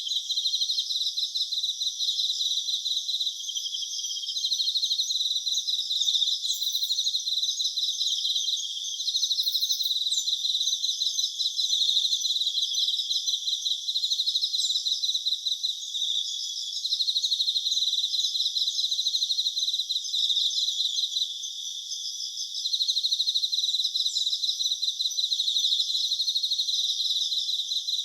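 A chorus of chirping insects, several high-pitched trills overlapping, each made of rapid pulses and starting and stopping every few seconds; there is no low sound at all.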